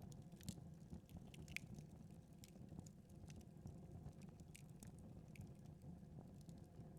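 Faint crackling of a wood fire in a fireplace: irregular small pops and snaps over a low steady hum.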